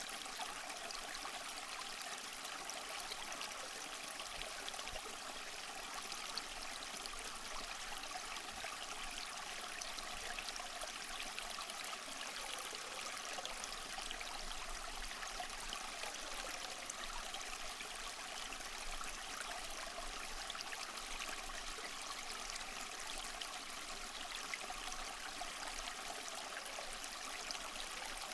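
Small waterfall splashing steadily over mossy rocks, a constant trickling and splashing of falling water.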